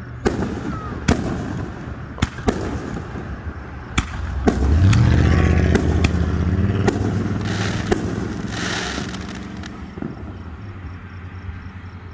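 Aerial fireworks going off in a rapid string of sharp bangs about once a second. About four and a half seconds in, a louder low rumble with a rising pitch swells for a couple of seconds, then fades.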